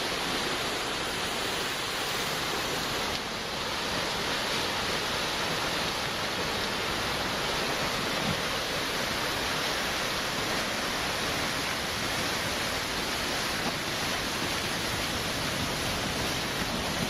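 Steady rushing of a debris flow: floodwater churning down a channel with boulders and debris.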